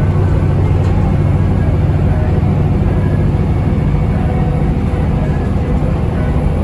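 Scania DC9 five-cylinder diesel of a 2003 Scania L94UB bus running steadily under way, heard from inside the passenger cabin with road and body noise.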